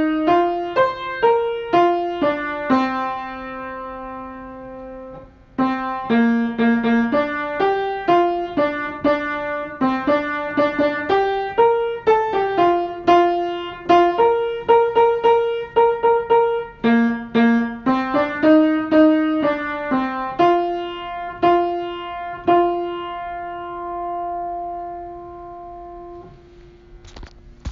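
Solo piano playing a simple melody over chords, with a brief break about five seconds in and a long final note that fades away near the end.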